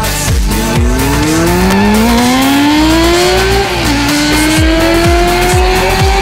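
Sport motorcycle engine accelerating hard, its pitch climbing steadily, dropping at an upshift a little under four seconds in, then climbing again. Electronic dance music with a steady kick drum plays throughout.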